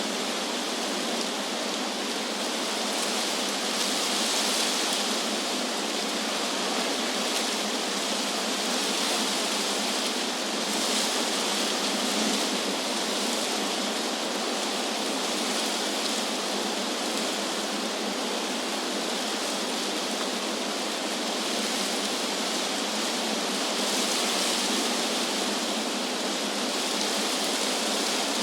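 Wind rushing through tree leaves: a steady, dense hiss that swells gently now and then.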